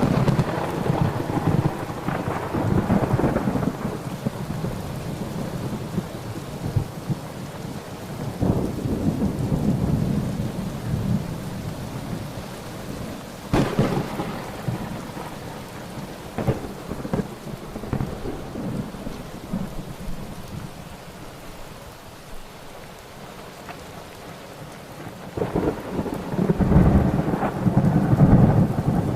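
Thunderstorm: steady rain with rolling thunder. A rumble fades over the first few seconds and another rolls through about nine seconds in. A sharp crack comes about halfway through, and a long, loud rumble builds near the end.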